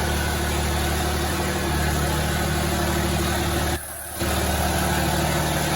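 Cummins inline-six diesel of a 2006 Dodge pickup idling steadily. The sound drops out briefly about four seconds in, then returns unchanged.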